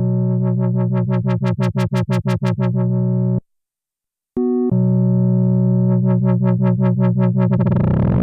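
Sequential analog synthesizer playing a held low chord under a fast, evenly pulsed repeating note, about six pulses a second. The sound cuts out abruptly a little over three seconds in. About a second later a short chord blip sounds, and then the pulsing pattern starts again.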